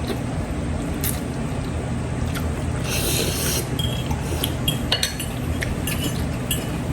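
Cutlery clinking and scraping against a plate during eating, with a short scrape about three seconds in and several sharp ringing clinks toward the end, over a steady low hum.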